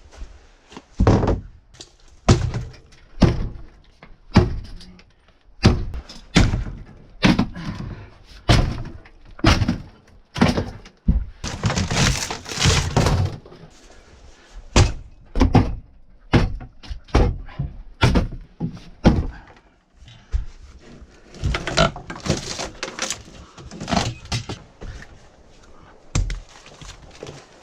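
Heavy debris from a gutted RV being thrown onto a load: a sharp thunk about every second, with a longer clattering crash around twelve seconds in.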